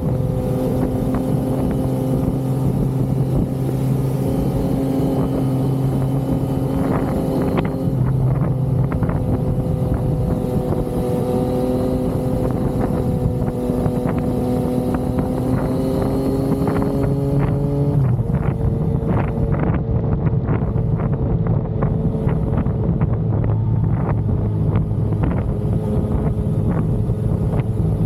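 Yamaha XSR900 inline three-cylinder engine running while riding at a steady pace, its note creeping slowly up and then dropping in pitch about two-thirds of the way through, with wind rushing over the microphone.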